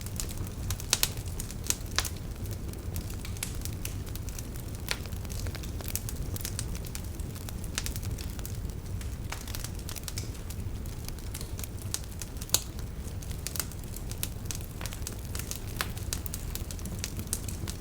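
Wood fire burning in a fireplace: a steady low rumble of the flames with irregular crackles and a few sharper pops.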